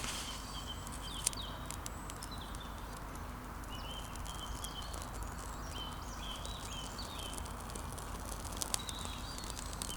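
A freshly lit small campfire crackling, with scattered sharp pops, while a bird calls with short high chirping notes in the background.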